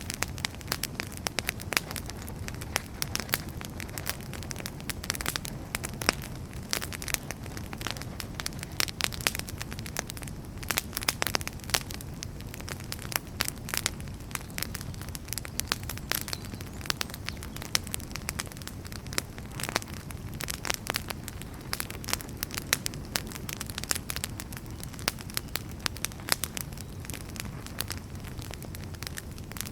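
Firewood burning in a fireplace, crackling: frequent sharp pops and snaps, several a second, over a steady low rumble of the flames.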